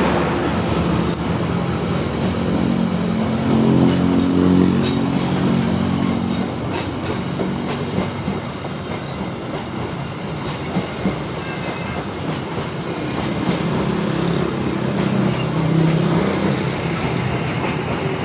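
Passenger coaches of a departing diesel-hauled train rolling past at close range: a continuous rumble and low hum, with the wheels clacking irregularly over the rail joints.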